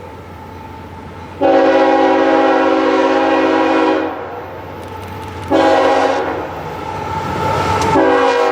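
Diesel locomotive's multi-chime air horn sounding a chord: one long blast, a short blast, then another blast starting near the end. The rumble of the approaching train rises between the blasts.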